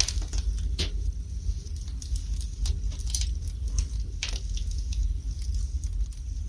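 Wood fire burning in a fireplace: irregular crackles and sharp pops from the logs over a steady low rumble of the flames, with a louder pop near the start and a few more spread through.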